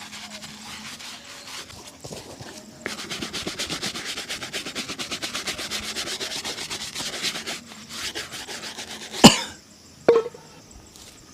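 Rapid back-and-forth brushing of a leather shoe during a shoe shine, stroke after stroke in a quick, even rhythm. It stops, and then comes a sharp loud knock and a smaller one just after.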